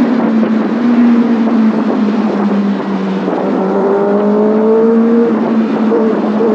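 Kawasaki Ninja ZX6R inline-four engine running at steady revs while riding, with a rush of wind noise. Past the middle, a higher tone rises slowly in pitch.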